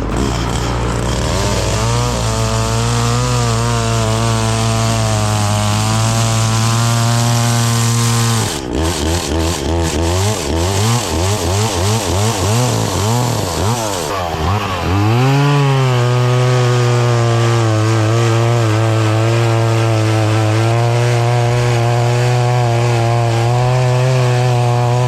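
Chainsaw running near full throttle, cutting wood at a steady high pitch. For about six seconds in the middle the throttle is blipped up and down over and over, then the saw goes back to a steady high pitch.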